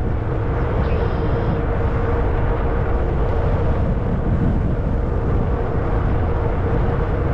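Wind rushing over the microphone while riding a Zota Zephyr fat-tire electric bike, with a steady faint hum underneath.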